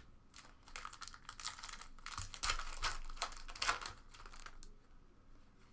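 Foil trading-card pack wrapper being torn open and crinkled: a run of irregular crackling rustles lasting about four seconds, dying away near the end.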